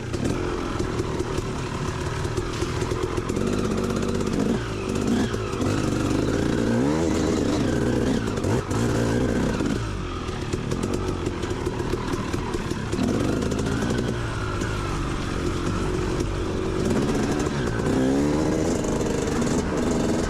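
Motorbike engine revving up and down again and again as it is ridden, over a steady rushing noise.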